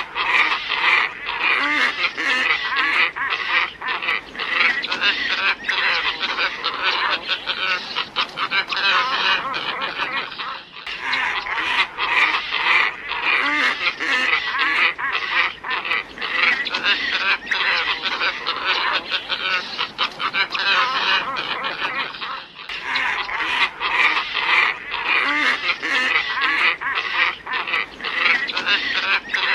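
Glossy ibises calling: many overlapping calls from a flock, a recording looped as a bird lure, with a brief break where the loop restarts about 11 seconds in and again about 23 seconds in.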